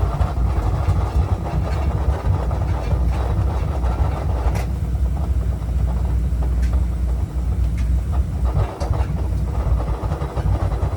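Oil-fired boiler burner running with a steady low rumble and a few faint ticks, its sound thinning out about four seconds in and picking up again near the end as it falters toward shutting off. The burner motor's coupling to the fuel pump is stripped, so the pump is not driven properly and the burner cuts out.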